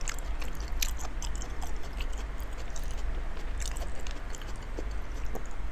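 A person chewing a large mouthful of raw salmon with the mouth full, giving soft wet smacking and clicking sounds.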